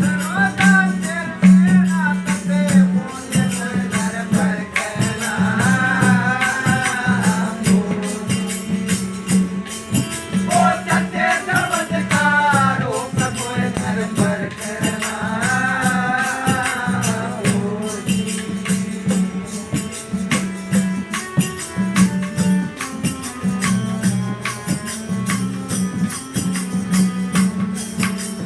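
Devotional satsang bhajan: a singer's phrases come and go over a steady beat of rattling, jingling hand percussion and a low sustained note.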